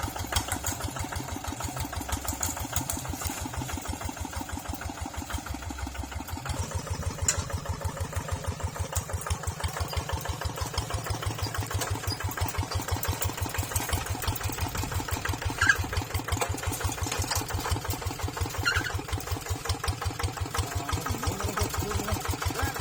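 Tractor engine running with a steady, even chugging beat; about six seconds in the low chugging grows stronger and stays that way.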